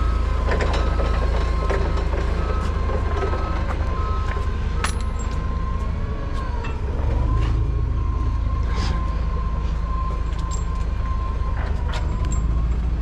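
Heavy machine's engine running steadily with a constant whine, while an intermittent beeping alarm sounds for the first few seconds and stops. Scattered sharp metal clinks from work on the wheel.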